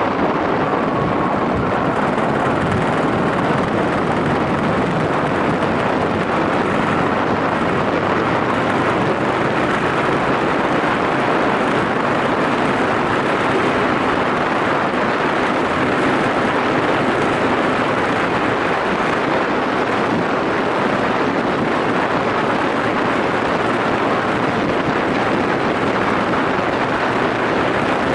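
Yamaha SRX400 single-cylinder engine running at a steady road speed while riding, under a heavy rush of wind noise.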